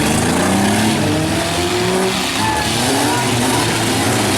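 Several demolition-derby compact pickups and vans revving their engines at once, the pitches rising and falling as they drive and ram.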